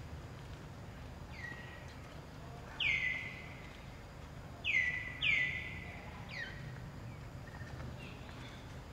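Bird calls, about five: each a quick downward slur settling into a short held whistle, the three loudest in the middle stretch, over a steady low background hum.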